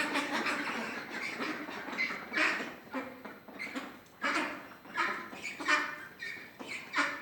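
Domestic ducks quacking in a string of short, separate calls, about one every half to two-thirds of a second.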